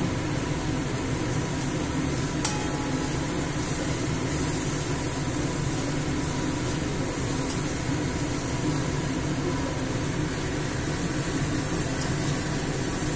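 Chopped onion and garlic with turmeric frying in oil in a steel kadai on a low flame: a steady sizzle while a metal spatula stirs and scrapes the pan. There is one sharp metal clink about two and a half seconds in.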